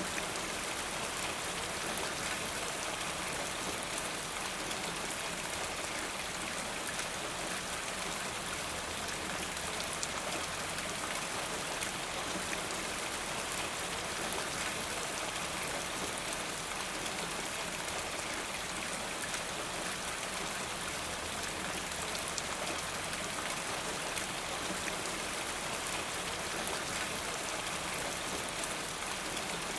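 Steady rain, an even hiss of falling rain with faint scattered drop ticks, unchanging throughout.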